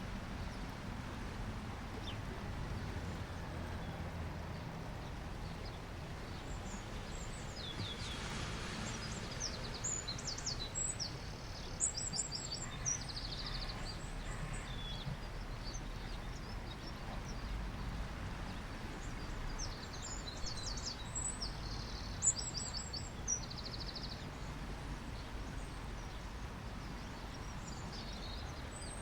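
Small birds chirping in short, rapid, high trills that come in clusters, over a steady low rush of background noise.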